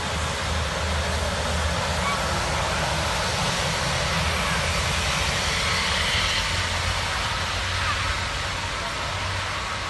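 Airbus A350's Rolls-Royce Trent XWB turbofan engines at takeoff power, heard from a distance as a steady jet noise with a low rumble, swelling in the middle and easing off near the end.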